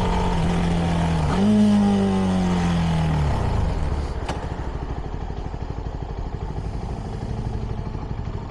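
CFMoto 300NK's single-cylinder engine through its stock exhaust: the pitch jumps up about a second in, then falls steadily as the bike slows, and after about four seconds it settles to a quieter idle.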